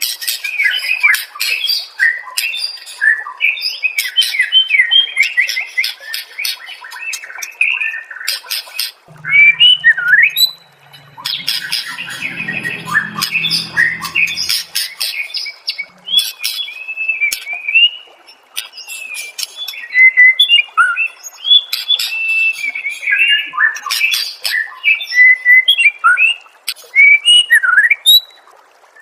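White-rumped shama (murai batu) singing a fast, varied song of loud whistles, trills, chirps and sharp calls, as used in a bird-training masteran recording. A brief low hum comes in under the song about a third of the way in.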